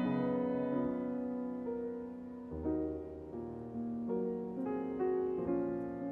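Background music: a slow, gentle piano piece playing sustained chords and a soft melody.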